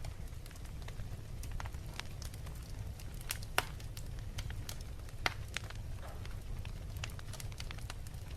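Wood fire in a fireplace crackling, with irregular sharp pops over a steady low rumble; two pops, about three and a half and five seconds in, are louder than the rest.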